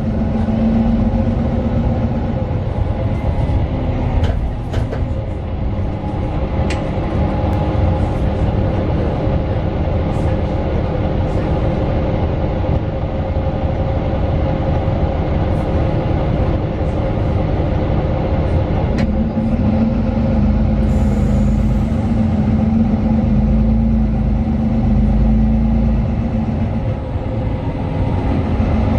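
Interior sound of a Mercedes-Benz Citaro 2 city bus on the move: its OM 936 six-cylinder diesel and ZF Ecolife automatic gearbox give a steady drone over road rumble, with scattered rattles and clicks. A stronger engine hum comes in at the start and again for several seconds past the middle.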